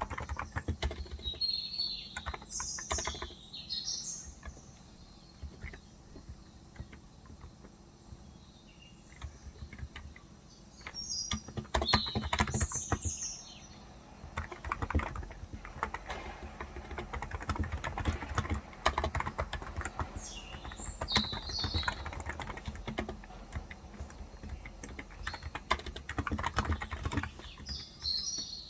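Typing on a Cox Endeavour tenkeyless electro-capacitive (35 g) keyboard, in irregular bursts of keystrokes with short pauses. Birds chirp at intervals, four short spells of high chirping.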